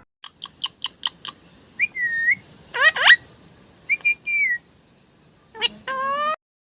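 Pet parrot whistling and chirping: a quick run of short chirps, then held whistled notes, with the loudest a sharp upward-sweeping whistle about three seconds in, and a harsher call near the end.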